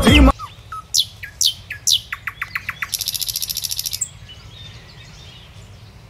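Forest birds calling: a few sharp, falling chirps, a quick run of about eight ticks a second, then a high, fast buzzing trill about three seconds in. Music cuts off just after the start.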